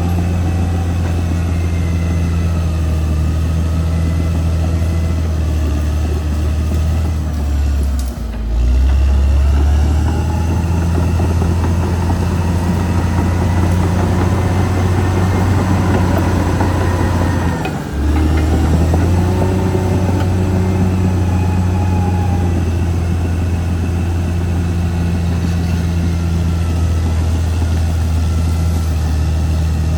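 Caterpillar D6R XL bulldozer's diesel engine running steadily and loudly, with a higher whine above it that rises and falls. The engine sound dips briefly about eight seconds in and again near eighteen seconds, then picks back up.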